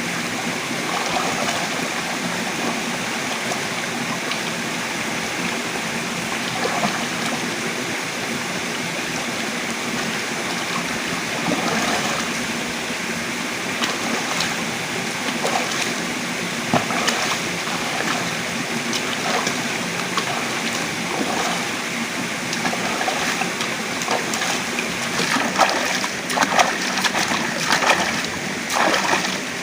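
Steady rush of running water, with scattered sharp splashes that come more often near the end.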